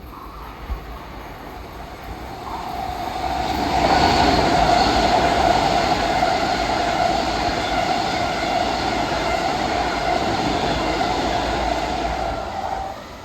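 Long Island Rail Road train running past on the main line. Its rumble builds over the first few seconds and holds loud with a steady high tone over it, then falls away suddenly near the end as the train clears.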